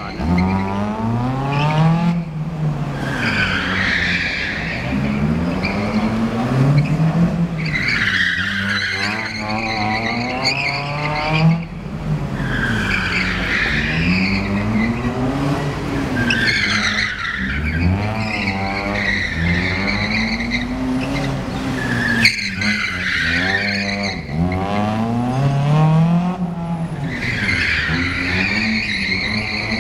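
Honda Civic driven hard in gymkhana drift practice: the engine revs up and drops back again and again, about every four to five seconds, with tyres squealing through each slide.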